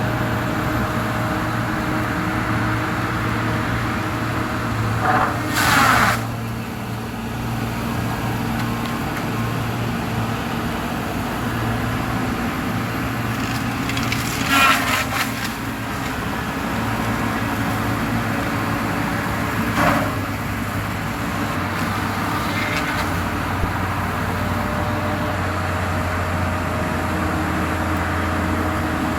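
Logging machine's engine running steadily as it works among the trees, with three brief louder sounds about five, fifteen and twenty seconds in.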